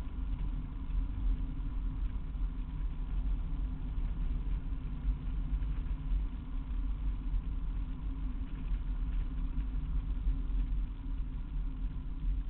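Old car's engine running steadily while driving at low speed, heard from inside the cabin, with road noise underneath.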